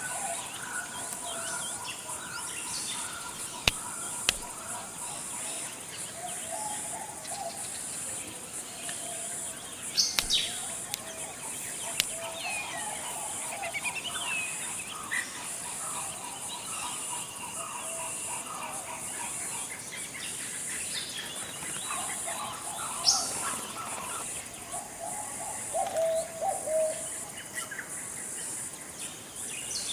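Forest ambience: several birds chirping and calling over a steady, high-pitched insect drone. A few sharp clicks cut through.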